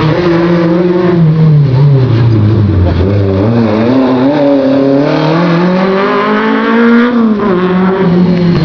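Racing hatchback engines revving hard through a slalom course. The pitch falls over the first two seconds, climbs steadily for about four seconds under acceleration, drops sharply about seven seconds in, then rises and falls in short changes.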